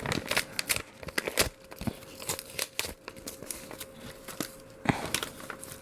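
Candy wrapper of Godiva milk chocolate truffles crinkling and tearing as it is opened by hand, in irregular crackles with a few sharper rips.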